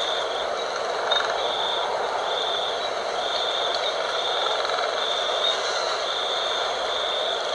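Night wind blowing steadily, with a high insect trill pulsing on and off about once a second.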